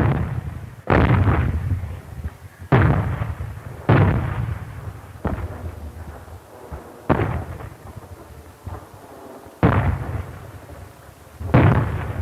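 Artillery firing: about eight heavy shots at irregular intervals, each followed by a tail that dies away over a second or so.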